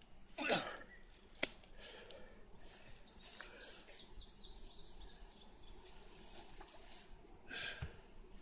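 Faint bird chirping in the background, with a single sharp click about a second and a half in.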